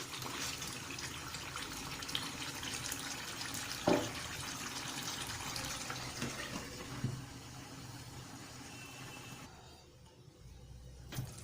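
Tap water running into a bowl while rice is rinsed by hand, with an occasional knock, tapering off about two-thirds of the way through.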